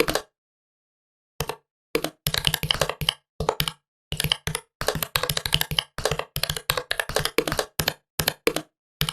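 Typing on a computer keyboard: quick runs of key clicks in bursts, broken by short pauses.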